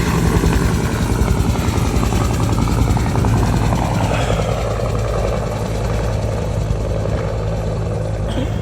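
Helicopter running loudly, its rotor giving a fast, even chop over a steady engine drone. About four seconds in, a higher tone slides down in pitch and the top end fades a little.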